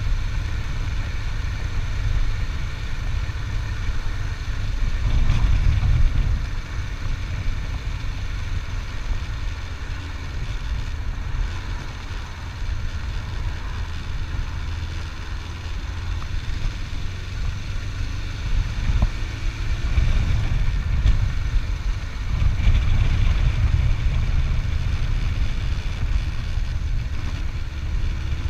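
Motorcycle engine running during a ride, a steady low rumble that swells around five seconds in and again from about twenty seconds in.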